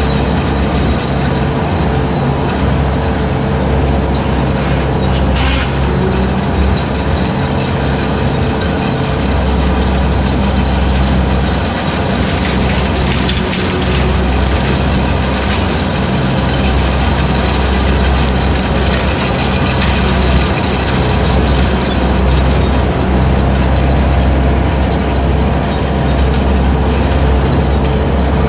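Skid steer engine running steadily under load while driving a 72-inch hydraulic brush cutter through long grass, with a steady high whine above the engine.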